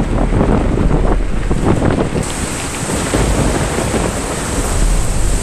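Strong gusty wind battering the microphone with a heavy low rumble over a dense rushing hiss, like a storm; the hiss turns brighter about two seconds in.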